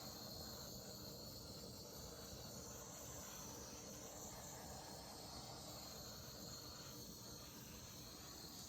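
Handheld butane torch flame hissing steadily as it is passed over wet acrylic paint to pop surface bubbles; it cuts off suddenly at the end.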